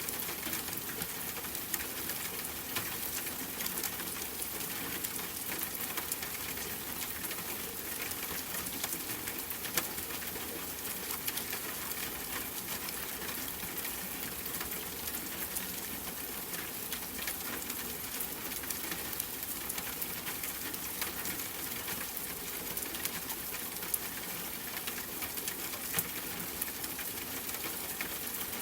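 Steady rain pattering, with a dense scatter of sharp drop ticks over an even hiss.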